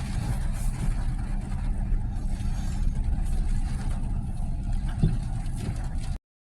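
Steady low rumble of a moving vehicle, engine and road noise with a fainter hiss above it and a knock about five seconds in, cutting off abruptly about six seconds in.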